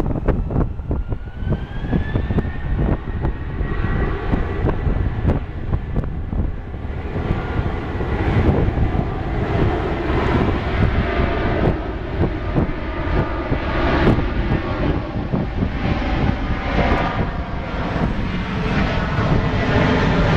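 Boeing 737-800 takeoff. Its CFM56-7B turbofan engines spool up with a whine that rises over the first two seconds or so, then settle into a steady, crackling jet roar at takeoff thrust.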